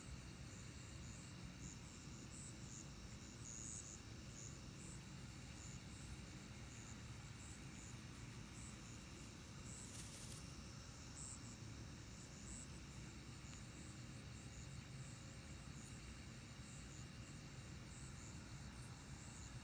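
Faint chorus of night insects, crickets chirping and trilling steadily, with scattered short high chirps over a low background rumble. A brief hiss about halfway through.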